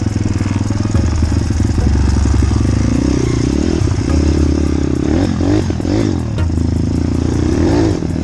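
Small motorbike engine running, its pitch rising and falling several times as it revs up and eases off.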